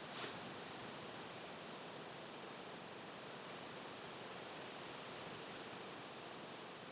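Steady, even rustling hiss of outdoor background noise, with one short tick about a quarter second in.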